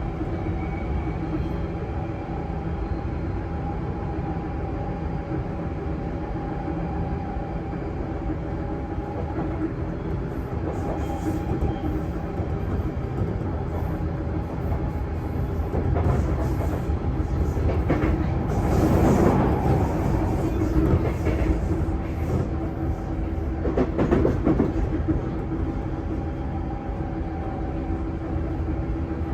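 Sotetsu 8000-series electric train (equipment-renewed set) running between stations, heard from inside a motor car: a steady motor hum over continuous wheel-and-rail rumble. The rumble swells louder for a few seconds about two-thirds of the way through, and briefly again a little later.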